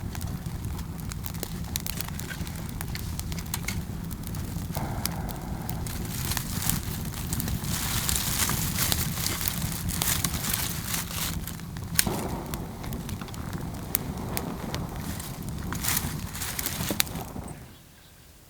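Campfire crackling and popping, with many sharp snaps over a steady low rumble. The sound stops abruptly shortly before the end.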